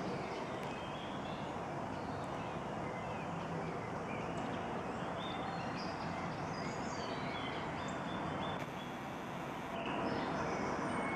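Outdoor birdsong: several birds singing and calling in short high phrases over a steady background hiss.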